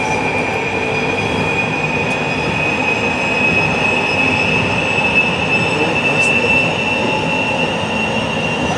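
JR Shikoku 8600 series electric train running at speed, heard from inside. A steady rumble of wheels on track sits under a high whine that slowly rises in pitch.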